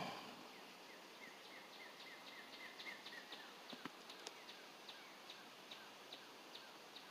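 Faint bird call: a long, even series of short down-slurred chirps, about three a second, with a couple of light clicks a little past the middle.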